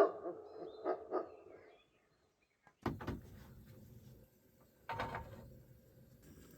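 Dog barking: the end of one bark, then two short barks about a second in. After a brief silence come two dull knocks, about two seconds apart.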